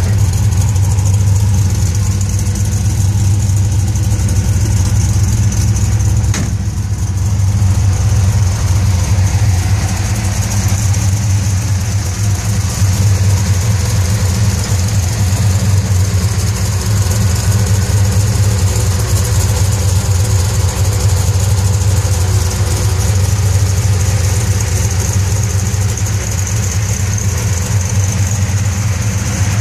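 The 8-71 supercharged small-block Chevy 350 V8 of a 1956 Chevy 210 idling steadily.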